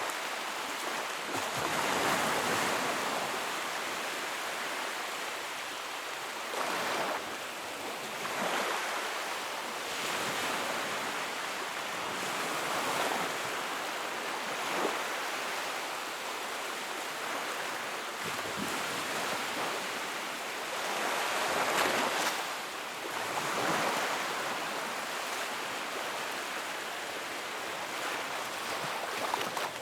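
Wood fire crackling in a fireplace: a steady rushing hiss of flames that swells and eases every few seconds, with occasional sharp pops.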